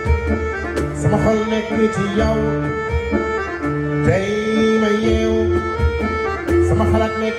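Live traditional folk dance music led by accordion, with held chords over a steady rhythmic bass.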